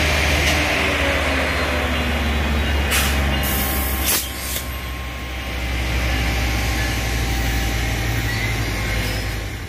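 Diesel passenger locomotive engines running steadily with a deep hum. A few sharp hisses of air come about three to four and a half seconds in. Then a train rolls past steadily, louder from about six seconds in.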